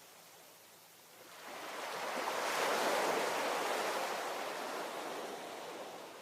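Ocean wave breaking on the shore: the surf swells about a second in, peaks a couple of seconds later and washes away, fading near the end.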